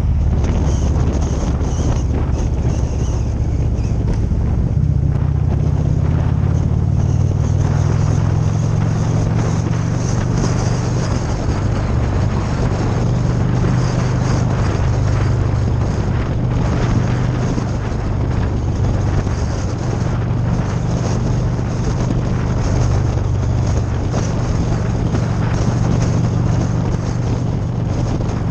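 Motorcycle engine running steadily while riding, its note rising about five seconds in and holding, with wind buffeting the microphone.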